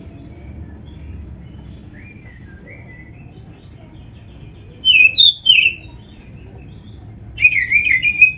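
Oriental magpie-robin (kacer) singing: soft scattered chirps, then two loud bursts of quick whistled notes, about five seconds in and again near the end, over a faint low background hum.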